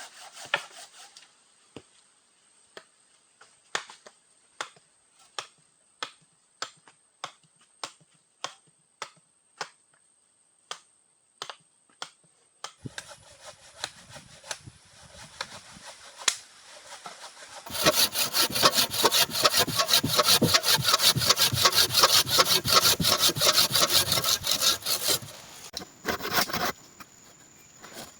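Saw cutting through wood: separate, evenly spaced strokes at first, then from about two-thirds of the way in a run of fast, much louder strokes, easing off near the end.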